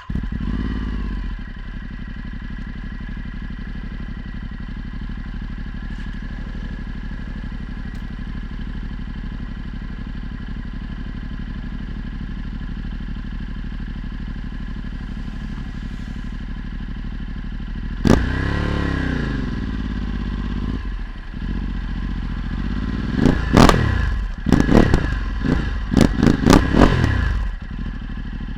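Ducati Multistrada 1260's V-twin engine with a Termignoni exhaust firing up and then idling steadily. About eighteen seconds in, the throttle is blipped once. Near the end it is revved sharply several times in quick succession.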